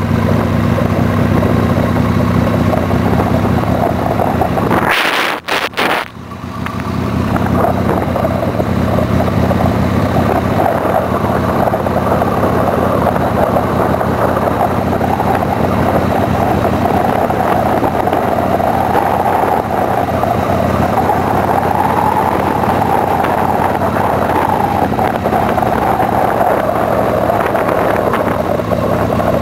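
Steady running noise of a motor vehicle in motion, with a brief break about five seconds in.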